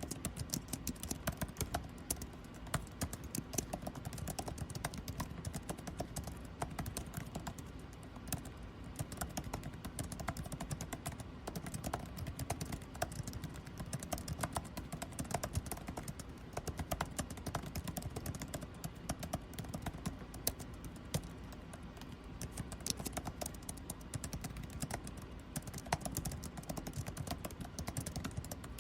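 Continuous typing on a computer keyboard, many quick irregular key clicks, over the steady low hum of office air conditioning.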